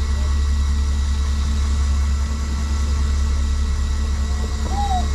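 Party fishing boat's engine running steadily with a low drone. A short squeak sounds near the end.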